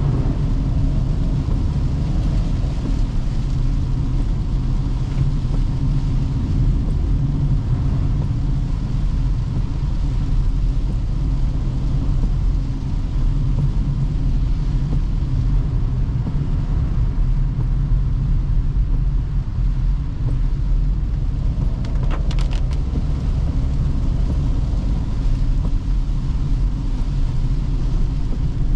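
Toyota Hyryder hybrid car on the move: a steady low rumble of road and drivetrain noise. A short cluster of clicks or knocks comes about three-quarters of the way through.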